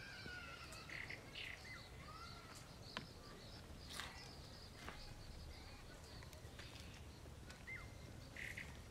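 Faint birds calling in the bush: scattered short chirps and whistled notes, with a few sharp clicks between about three and five seconds in.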